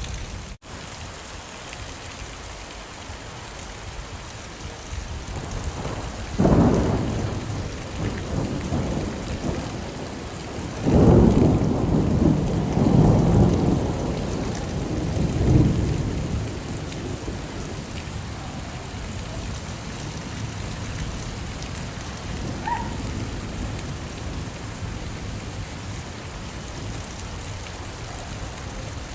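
Steady rain with thunder: a clap about six seconds in, then a longer rolling rumble from about eleven to sixteen seconds.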